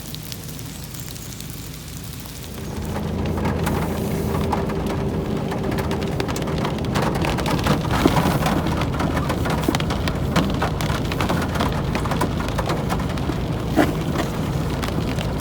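Steady rain, with many separate drops hitting close by over a low steady hum; about two and a half seconds in it becomes louder.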